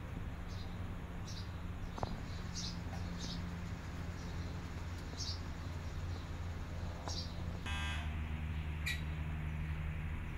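Small birds chirping in short, high notes every half second to a second, over a steady low hum. A short buzzy sound comes about eight seconds in.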